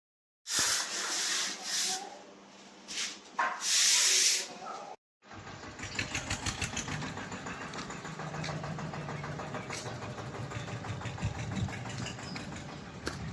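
Loud hissing noise in surges for about four seconds. Then, after a brief break, an engine runs steadily with a fast, even pulse.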